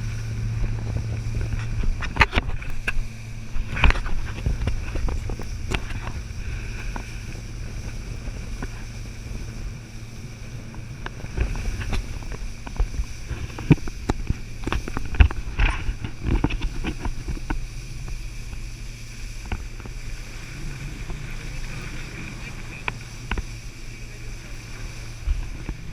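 Speed boat engine running steadily, with irregular knocks and thumps throughout.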